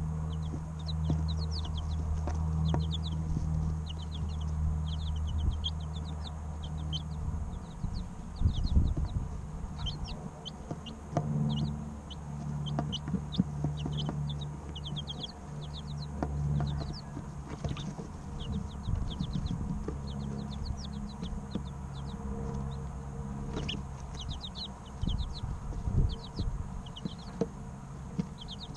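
Three-week-old chicks chirping in short, quick clusters of high peeps, over a low hum with occasional soft thumps.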